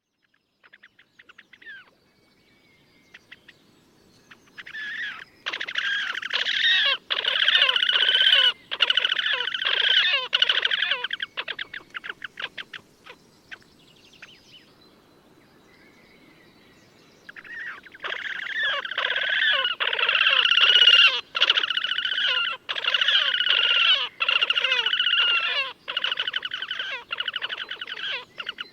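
Slavonian grebes giving their rapid, quavering trilling calls in two long bouts, the second one longer, with a few short calls before them.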